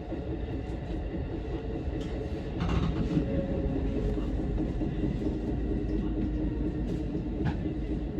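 Electric commuter train running, heard from inside the front car: a steady rumble with steady whining tones, growing louder with a rushing noise about three seconds in, and a sharp click near the end. The train is approaching a station.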